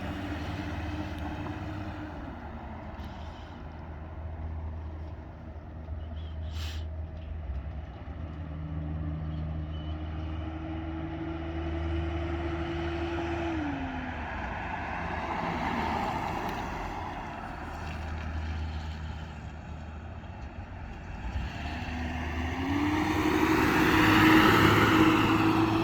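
A 1983 Datsun 280ZX's inline-six engine running as the car drives. The engine note climbs, holds and falls back twice, with the loudest swell a few seconds before the end.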